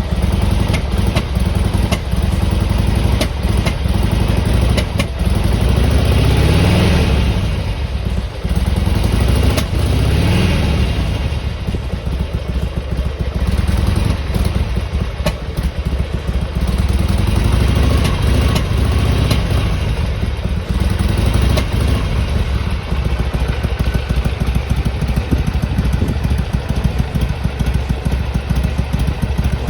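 Harley-Davidson Sportster XL883R's air-cooled 883 cc V-twin idling during warm-up, blipped up in revs briefly twice, about six and ten seconds in, then settling back to a steady idle.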